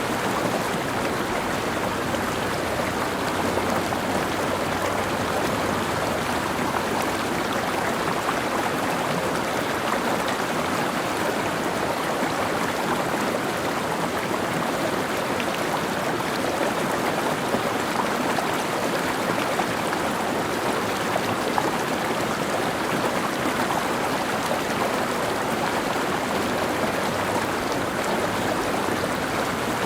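Mountain stream, water running and splashing over rocks in a steady, continuous rush.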